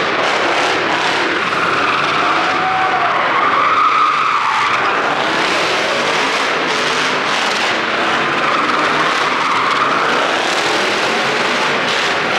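Tyres squealing and skidding on concrete in one long continuous burst, with a vehicle engine running under it.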